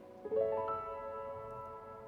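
Background piano music: a chord rolled upward note by note about a quarter second in, then left ringing and slowly fading.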